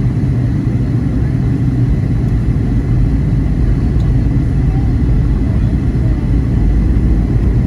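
Steady low rumble of an airliner's engines and airflow, heard from inside the passenger cabin, with a faint steady whine above it.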